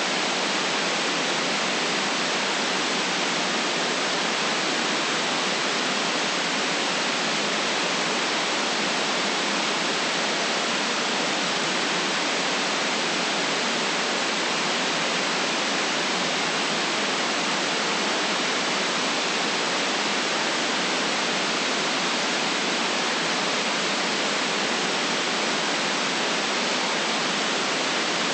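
Steady white noise: an even, unchanging hiss with no traffic or other events in it.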